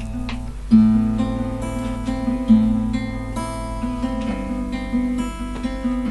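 Acoustic guitar playing the introduction to a song, strummed and plucked chords ringing on, with fresh strokes every second or two.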